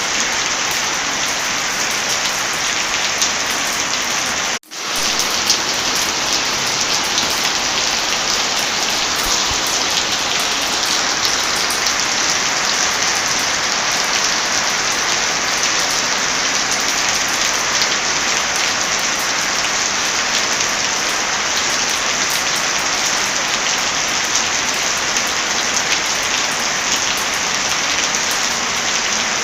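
Heavy rain falling in a steady, dense hiss with scattered sharp ticks. The sound cuts out for a split second about four and a half seconds in, then resumes.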